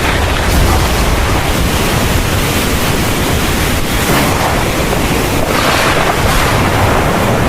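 Heavy thunderstorm rain falling steadily: a dense, even hiss with a strong low undertone, swelling briefly about four seconds in and again around six seconds.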